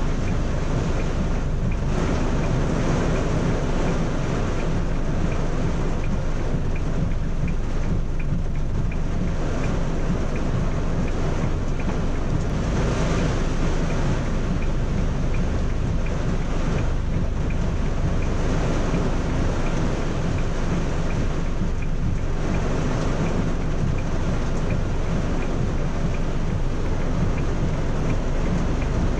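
Heavy rain on a car, heard from inside the cabin: a steady, even noise of rain with a low rumble underneath.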